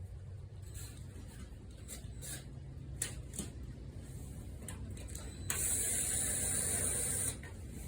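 A few light clicks and taps, then a loud spraying hiss a little past halfway that lasts nearly two seconds and cuts off suddenly.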